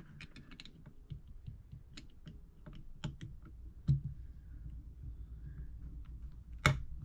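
Small metal clicks and taps of hand tools against a carburetor's parts as a jet is worked loose, with two louder sharp knocks, one about four seconds in and one near the end.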